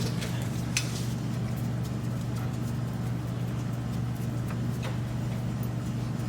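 A steady low mechanical hum, with a few light clicks or taps over it.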